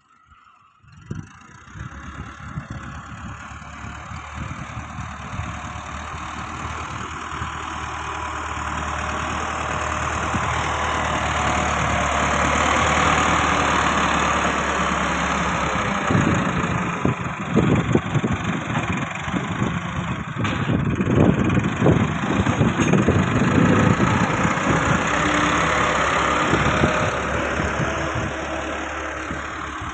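Massey Ferguson 385 tractor's diesel engine running, growing louder over the first dozen seconds. In the second half it is joined by a run of irregular knocks and rattles.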